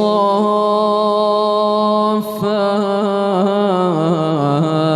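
A man's voice chanting Quran recitation in tajweed style, drawing out long held vowels with melodic ornamentation. There is a brief break about two seconds in, then a wavering run of notes that settles back onto a long held tone.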